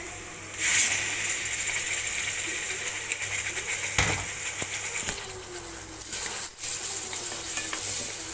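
Spiced onion masala frying in oil in a pan, the sizzle jumping up about a second in as tomato paste goes in, with a metal spoon clinking against the pan near the middle.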